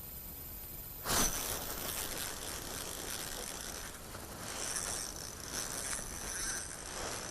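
Fishing reel being cranked, its gears whirring and clicking. It starts suddenly about a second in and keeps going.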